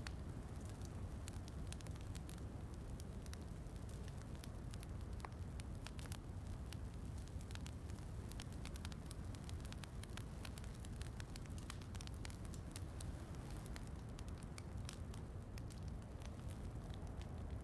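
Wood fire crackling, with frequent small irregular pops and snaps over a steady low rush.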